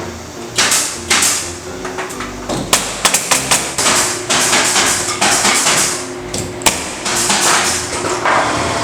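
Wooden ceiling joist being nailed to the wall framing: a series of sharp nailing impacts, several in quick succession about three seconds in, with scraping and handling of the timber between them.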